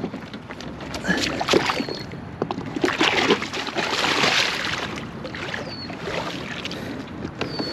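Kayak moving on the water: paddle strokes splashing, with knocks against the hull. The water rush is loudest around the middle.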